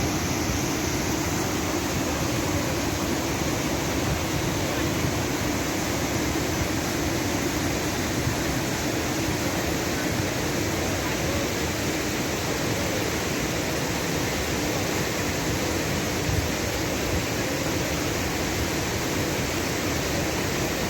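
Floodwater in a swollen river rushing past, an even, unbroken rush of water noise.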